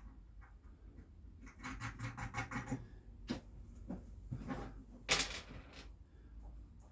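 Small metal clicks and rattles of a nut and washer being fitted onto a bolt through a wooden leg, in a quick run of clicks and then a few single ones, with one louder brief scrape about five seconds in.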